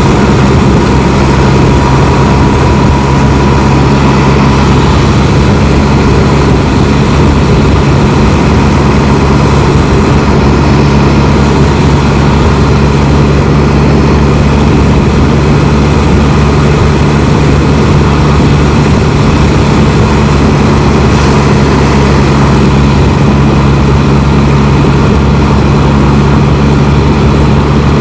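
A Can-Am Spyder three-wheeled motorcycle riding at steady speed: its engine hums evenly under a constant rush of wind and road noise.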